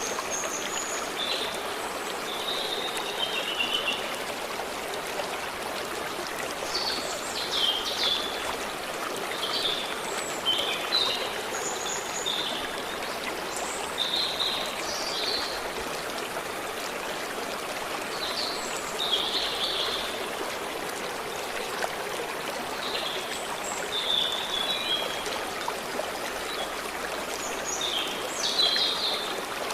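A stream flowing and trickling steadily, with small birds calling and chirping in short high phrases scattered over it.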